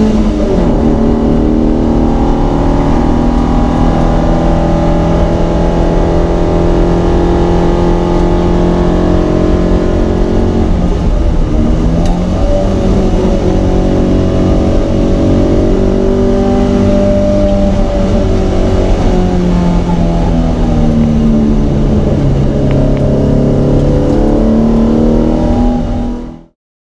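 Alfa Romeo GT Junior 1300's twin-cam four-cylinder engine under hard racing acceleration, heard from inside the cabin. The pitch climbs and drops again and again through gear changes and lifts, then the sound cuts off abruptly near the end.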